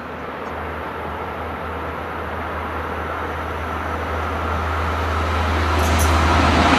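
Long Island Rail Road train approaching, its low rumble and rail noise growing steadily louder, with two short high clicks near the end.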